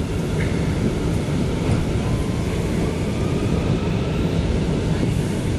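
Inside a moving R179 New York subway car: a steady rumble of the train running along the track between stations, with a faint rising whine.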